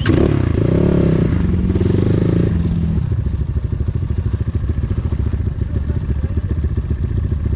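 Enduro motorcycle engine revving up and down a couple of times over the first few seconds, then running steadily with a fast, even beat.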